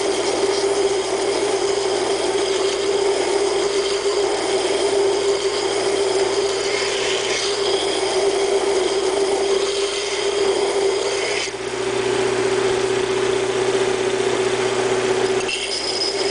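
Double-wheel hollow grinder (a belt grinder with two contact wheels) running steadily with a strong hum while a steel razor blank is hollow-ground on its belts. The sound changes about eleven seconds in and again near the end.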